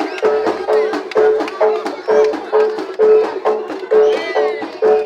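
Jaranan gamelan music: sharp drum strokes with a repeated pitched metallic note about twice a second. A brief wavering high tone comes in about four seconds in.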